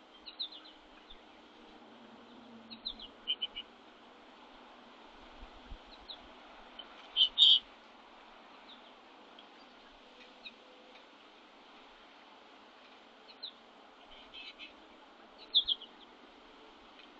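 Small songbirds giving short, high chirps scattered irregularly, the loudest a quick pair about seven seconds in and another pair near the end, over a faint steady hiss.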